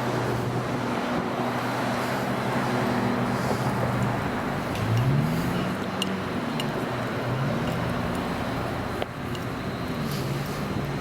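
Train running with a steady mechanical drone whose pitch glides upward about five seconds in, as if it is picking up power.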